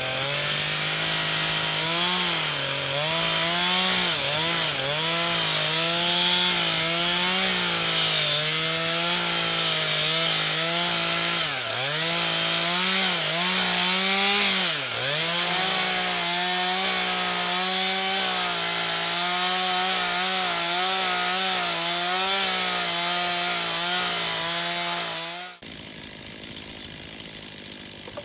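Two-stroke chainsaw running at high revs while ripping lengthwise through a pine log. Its pitch sags briefly a few times, then the sound cuts off abruptly near the end.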